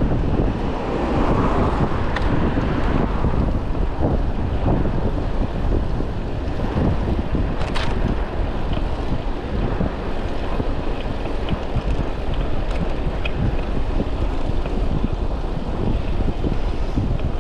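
Wind buffeting the microphone of a chest-mounted action camera on a moving bicycle, over the steady rumble of city traffic. A single sharp click comes about eight seconds in.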